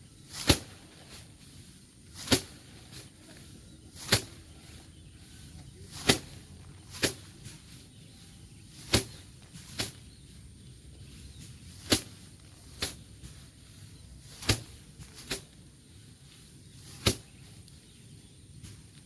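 Bundles of cut rice stalks whacked against a threshing board or frame in hand threshing, a sharp swishing slap every one to two seconds, often two blows close together.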